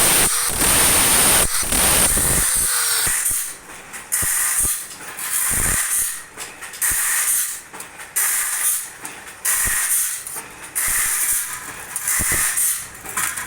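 Electric grinder working on a bandsaw blade. It grinds continuously for about three seconds, then in short repeated passes about once a second with brief drops in between.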